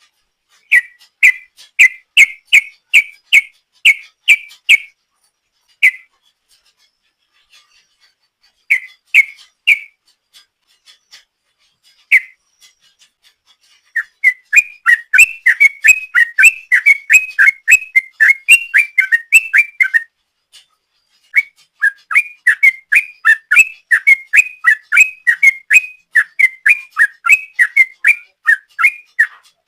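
Yellow-vented bulbul (trucuk) singing loud, short whistled notes at much the same pitch. They come at first in spaced groups of about two a second, then from about halfway in long fast runs of about three or four notes a second (the rapid 'ropel' song), with one brief pause.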